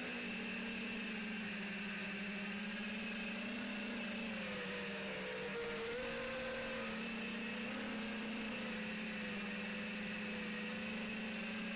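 QAV210 FPV quadcopter's brushless motors and propellers whirring at a steady throttle, the pitch wavering slightly up and down.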